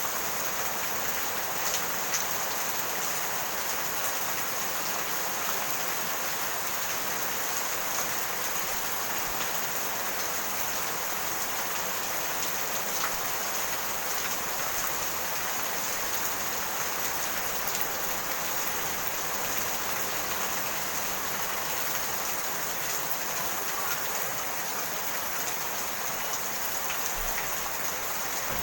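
Steady rain falling, an even hiss of many drops with faint scattered ticks of single drops.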